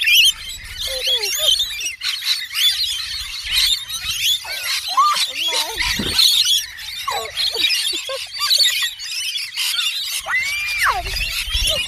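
A large flock of small birds chattering: many high chirps and squeaks overlap without a break, with now and then a louder shrill call. One long rising-and-falling squawk comes near the end.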